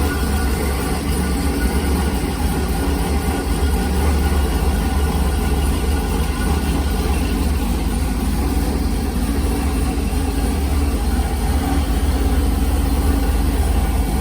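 LS3 V8 engine in a V8-swapped Corvair idling steadily through its tuned exhaust, a deep, even rumble.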